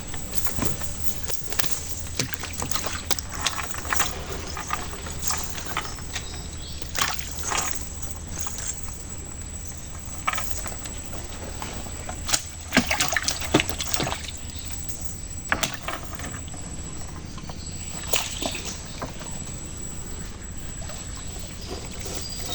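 Water sloshing and splashing in irregular bursts, with scattered short knocks.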